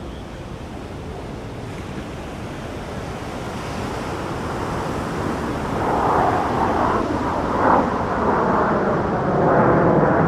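Jet aircraft approaching: a broad rushing noise that grows steadily louder, thickest in the low and middle range in the second half.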